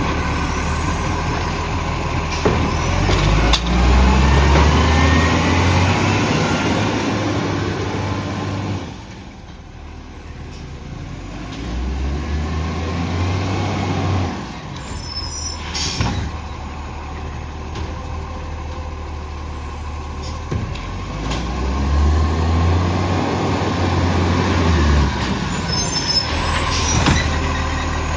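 Garbage truck's diesel engine revving up and settling back three times between quieter idling, its pitch rising and falling with each rev.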